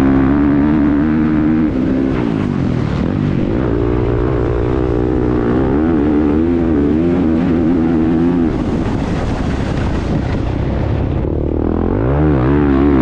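Motocross bike engine heard from an onboard camera, revving up and down as the throttle is worked. About eight and a half seconds in the engine note falls away for a few seconds under a rushing wind-like noise, then it revs up again near the end.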